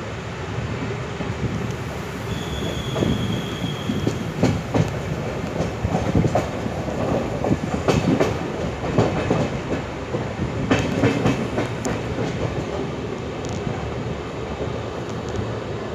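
Passenger express train running at speed, heard at the side of a coach: a steady rumble and rush of air, with the wheels clattering irregularly over rail joints and points. A brief thin, high squeal comes about two and a half seconds in.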